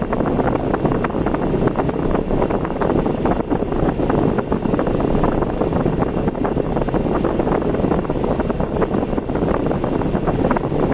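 Steady road noise of a car driving: tyre and engine rumble, with a rush that could be wind.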